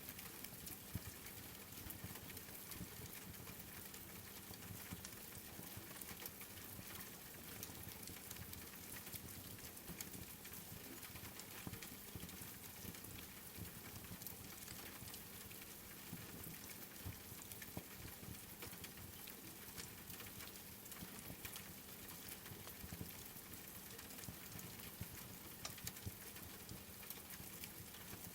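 Steady rain pattering, mixed with the crackle of a wood fire: a dense hiss broken by many small sharp pops.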